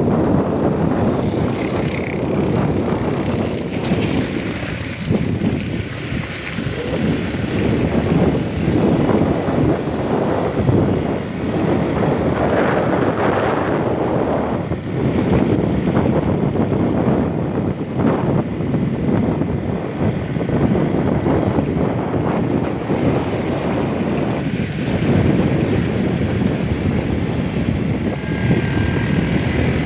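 Wind buffeting the microphone in loud, uneven gusts over a low, steady rumble, as on the move along a road. A faint high tone comes in near the end.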